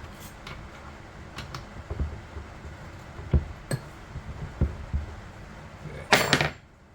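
Small metal tools being handled: scattered light clinks and knocks, then a brief loud rattle near the end.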